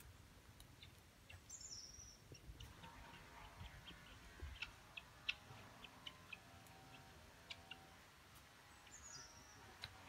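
Quiet outdoor ambience: a small bird chirps twice, a short high call about a second and a half in and again near the end. In between, a faint steady hum and scattered light ticks.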